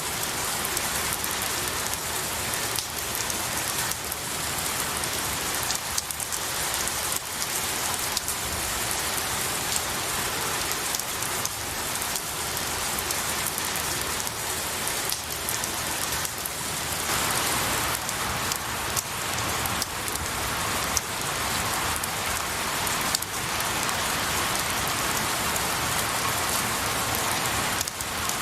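Steady rain falling on pine needles and trees, a dense patter with many individual drops pattering through it.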